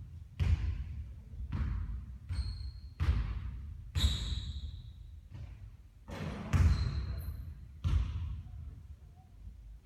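Basketballs bouncing hard on a court, about eight loud bounces at uneven intervals of roughly a second. A few are followed by a short, high ringing note.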